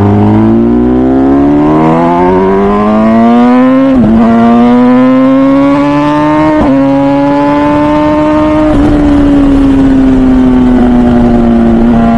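MV Agusta Brutale 1000RR's 998cc inline-four, through a full titanium Arrow exhaust, pulling hard under throttle with the pitch climbing through the gears. It shifts up twice, about four and six and a half seconds in. It then eases off and settles to a steady lower note for the last few seconds.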